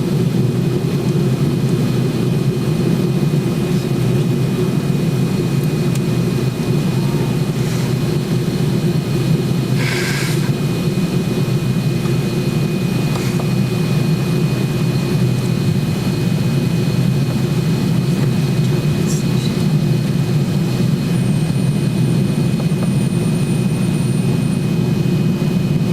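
Jet airliner cabin noise in cruise: a steady drone of the engines and rushing air, with a few faint steady tones in it. A short sharp clack about ten seconds in.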